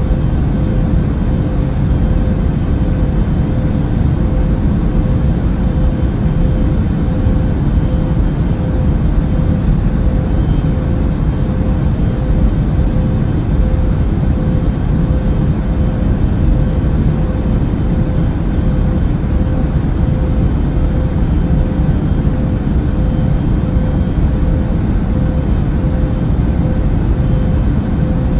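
Airbus A380 cabin noise in cruise flight: an even, unbroken low rumble of engine and airflow noise with a faint steady hum on top.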